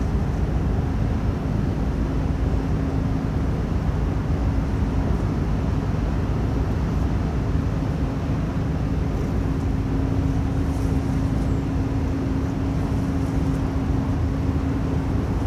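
Container ship's engines running, a steady low drone with a faint constant hum over it.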